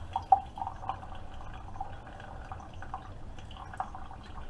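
Keurig K-Supreme Plus single-serve coffee maker mid-brew: coffee dripping and trickling into a mug with irregular plinks over a low steady hum, one plink louder about a third of a second in.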